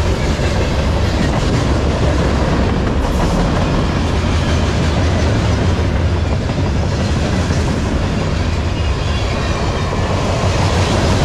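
Freight train cars, steel coil cars and a flatcar, rolling past at close range: a loud, steady rumble of steel wheels on the rails.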